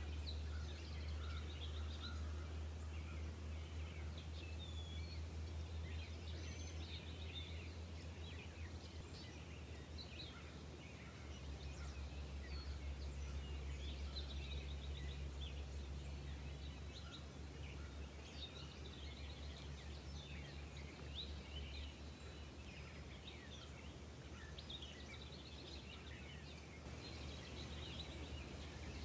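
Birds chirping and singing in many short calls, over a steady low rumble.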